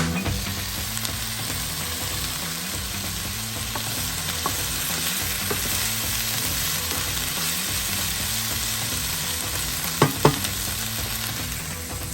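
Chicken gyoza frying in a skillet, a steady sizzling hiss, with two sharp knocks close together about ten seconds in.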